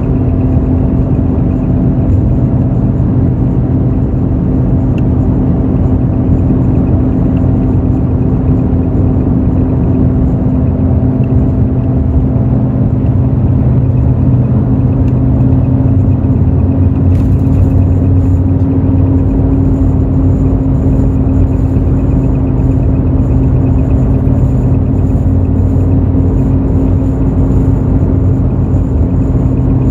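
Hino J08E-VD inline-six diesel of a Hino RN8JSVU intercity bus running at a steady pace, heard from inside the bus over road rumble.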